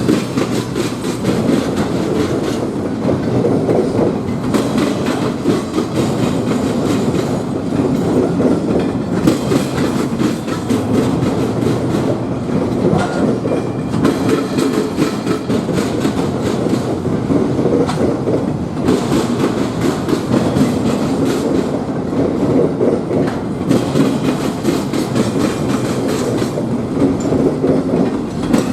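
A train rolling past, its wheels clacking steadily over the rail joints in a continuous, loud rumble.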